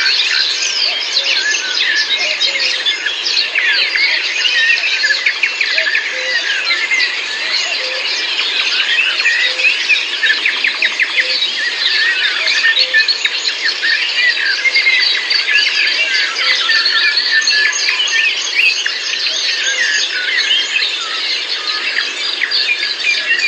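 A dense chorus of many songbirds singing and chirping at once, with overlapping short whistles and trills.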